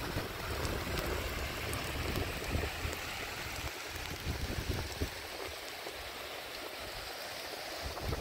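Steady rain falling, an even hiss with faint scattered ticks, with wind rumbling on the microphone for the first few seconds.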